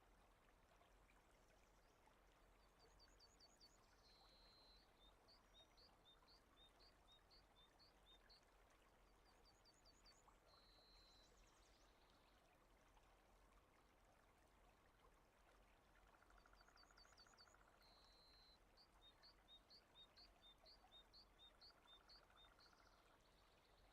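Very faint rain-and-running-water ambience with a bird singing over it: a repeated song of a few quick high notes, a held whistle, then a run of short notes, heard about three times.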